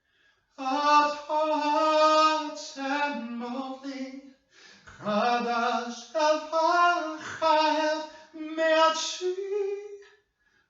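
A single voice singing unaccompanied, in two phrases separated by a short breath about four seconds in, with the melody climbing near the end.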